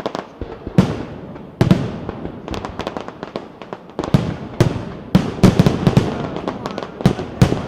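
Aerial fireworks going off in quick, irregular succession: sharp bangs that echo, with smaller pops in between.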